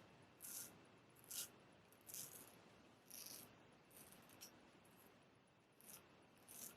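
Rolls Razor blade, honed on a King 6000 whetstone, scraping through stubble in short, faint strokes. The strokes are high-pitched and come roughly once a second at uneven spacing, two of them close together.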